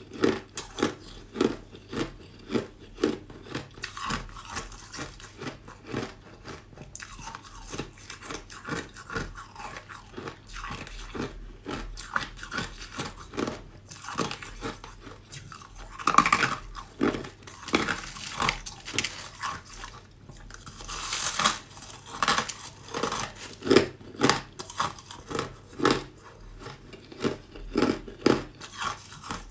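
A person biting and chewing ice: a steady run of crisp crunches, with louder bites now and then.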